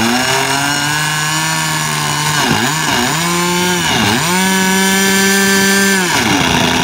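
SK .50 two-stroke glow engine with its stock muffler, turning a two-blade 10x7 propeller on a model airplane on the ground. The revs rise near the start, dip sharply three times in the middle and come straight back up, then fall back to idle near the end.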